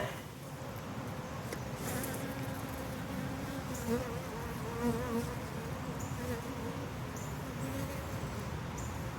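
Honey bees buzzing around an open hive in a steady, wavering hum, with a few light clicks.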